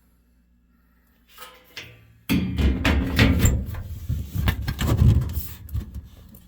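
Furnace filter being handled at its slot, with irregular scraping, rattling and knocking against the sheet-metal cabinet starting about two seconds in and a hard thump at the end.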